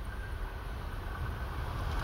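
E6 series Shinkansen train approaching at speed, a low rushing rumble that grows steadily louder, with wind on the microphone.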